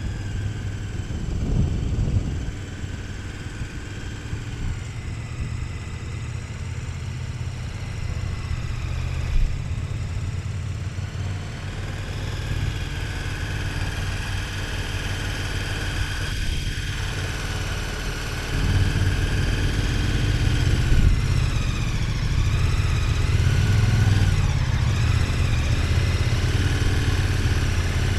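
KTM 1290 Super Adventure S's V-twin engine running under way, heard from the bike. It gets louder about two-thirds of the way through, then the revs rise and fall.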